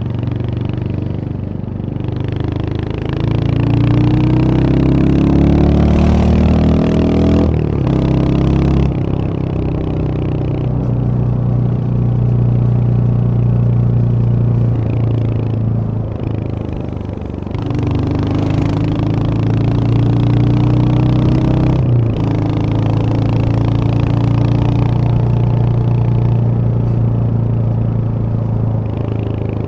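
Royal Enfield Hunter 350's single-cylinder engine running under way. It climbs in pitch for a few seconds, breaks off at a gear change about eight seconds in, then runs steadily. It eases off briefly past the middle, then climbs again to a second shift and settles to a steady cruise.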